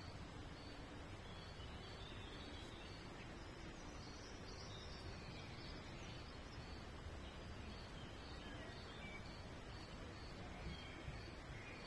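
Songbirds chirping faintly in scattered short phrases over a steady low background hiss and rumble, with a short high note repeating evenly about twice a second.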